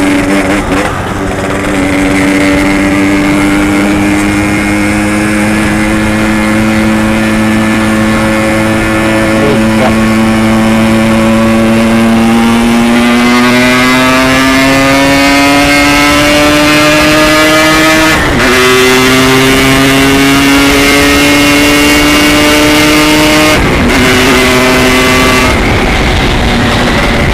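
Yamaha RX-King's two-stroke single-cylinder engine under way: a steady cruising note, then rising in pitch as the bike accelerates from about twelve seconds in, with brief breaks in the note about eighteen and twenty-four seconds in as the gears change.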